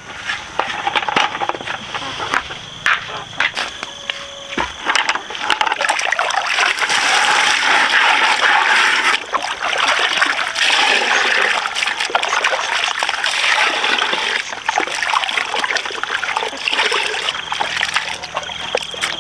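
Water splashing and trickling, with many small clicks. It grows louder about six seconds in.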